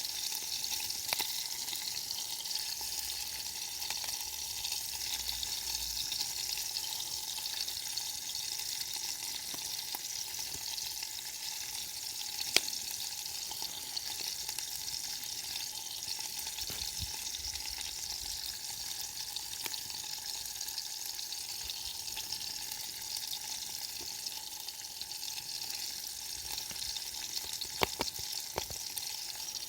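Steady sizzling hiss of food cooking over a wood campfire, with a few sharp pops: a loud one about halfway through and a couple more near the end.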